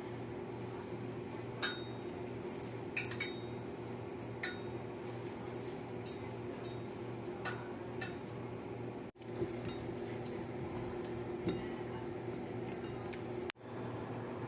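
Light clinks and taps of kitchen utensils against dishes, scattered irregularly over a steady low hum. The sound cuts out abruptly twice.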